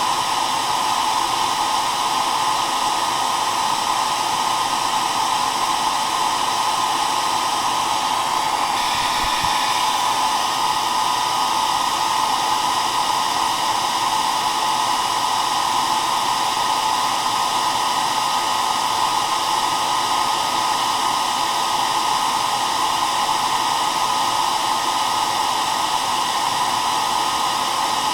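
Hair dryer running steadily: a constant blowing rush with a motor hum, strongest in the middle range, with a slight shift in tone about nine seconds in.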